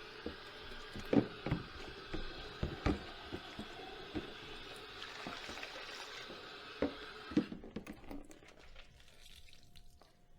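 Tap water running into a sink while dishes knock and clink against each other, with a few sharper clatters. The water stops about seven and a half seconds in, leaving a few light clicks of crockery.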